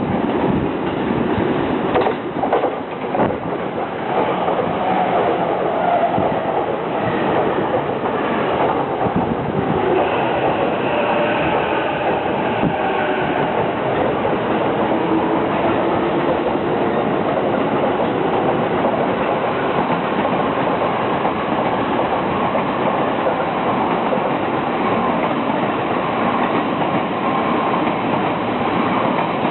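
Trains running through a station: a continuous rumble of wheels on the rails, with a few clacks over the rail joints about two to three seconds in. Faint high gliding tones come and go near the middle.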